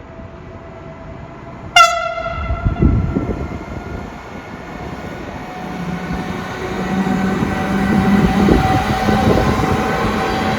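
Siemens Vectron electric locomotive sounding one long horn blast (the Rp1 warning signal) about two seconds in, then the train pulling away from the platform, its traction hum and whine growing louder.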